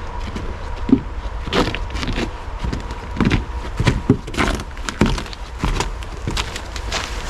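Footsteps of a hiker walking along a trail, crunching at about two steps a second, over a low rumble of wind or handling on the microphone.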